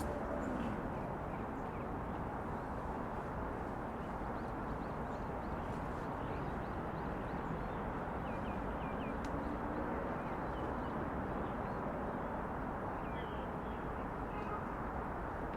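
Steady hum of city traffic, with a vehicle's engine note rising and falling as it passes near the start and again about two-thirds of the way through. Small birds chirp in short, high calls at intervals over it.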